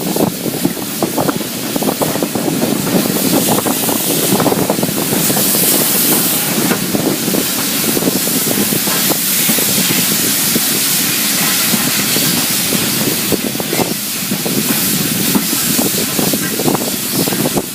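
Heritage steam train on the move, heard as a loud, steady rushing hiss of steam and wind. The hiss swells about five seconds in and again near the end.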